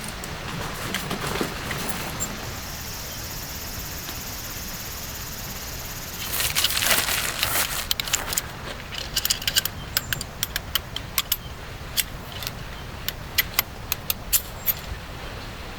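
Steady hiss of rain. About six seconds in there is a rustling swell, and after it a run of sharp, irregular clicks and taps.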